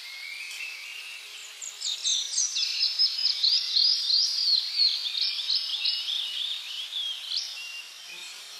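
Songbird singing a long, rapid run of whistled, warbling notes that begins about two seconds in and stops near the end, over a steady background hiss of insects or forest ambience.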